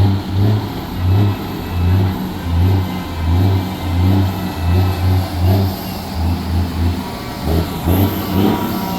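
Scania truck engines running and revving over a steady low bass beat, about two beats a second.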